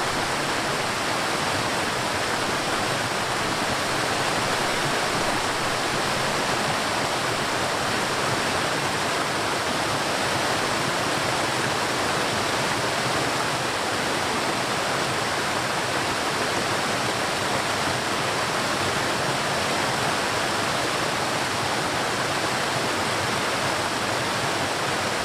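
River water flowing and rushing, a steady, even noise with no let-up.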